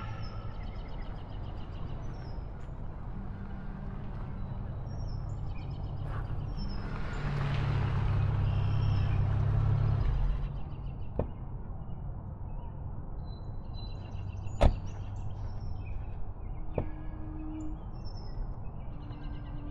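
Car engine running as a station wagon pulls in, growing louder for a few seconds midway, with birds chirping. A single sharp knock comes about fifteen seconds in.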